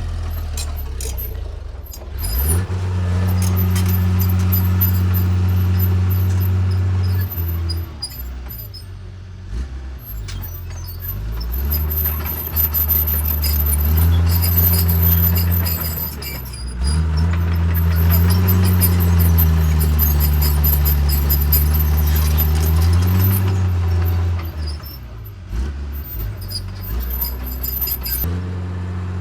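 Diesel engine of a Cat D3C bulldozer working, its note swelling louder for several seconds at a time and easing off in between, three times over, with scattered light clicks and rattles.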